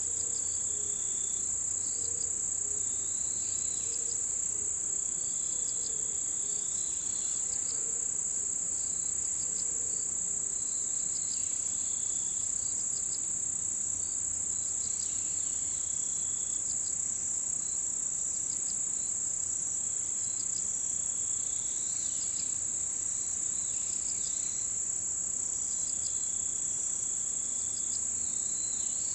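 Chorus of autumn insects in a mountain forest: a steady, unbroken high-pitched trilling, with softer chirps and short trills from other insects coming and going beneath it.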